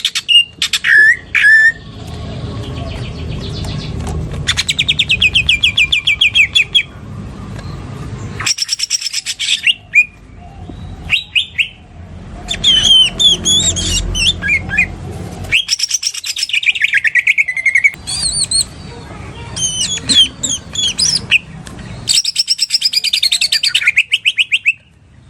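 Green leafbird (cucak ijo) singing in bursts of very fast, rattling trills that imitate a lovebird's long 'ngekek' rattle, each burst one to two seconds long with short pauses between, over a low background rumble.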